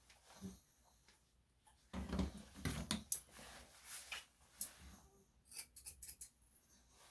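Grooming scissors snipping at a Yorkshire Terrier's coat in scattered sharp clicks, with a stretch of rustling and low bumps from the dog being handled about two seconds in.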